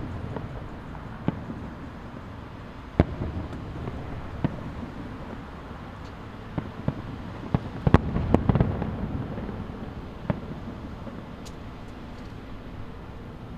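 Distant aerial fireworks shells bursting: about ten irregular sharp bangs over a steady low rumble, with a cluster of bangs around the middle and the loudest about eight seconds in.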